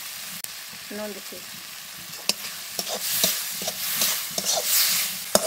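Spice paste of onion, garlic, tomato and ground spices frying and sizzling in a steel wok while a metal spatula stirs it, with short scrapes and ticks of the spatula on the pan. The sizzling gets louder about three seconds in. This is the masala being fried down in oil.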